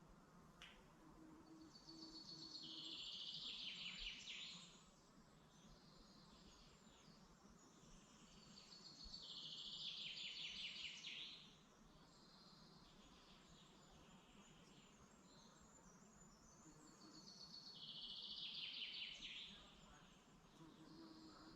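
A songbird singing the same short phrase three times, about seven seconds apart; each phrase lasts about three seconds, a rapid run of notes that builds and then falls away. Fainter chirps from other birds come between the phrases.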